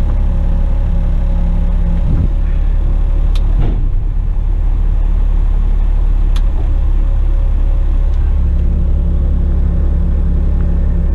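Western Star tipper truck's diesel engine running with a steady low rumble, with a few brief clicks or knocks along the way.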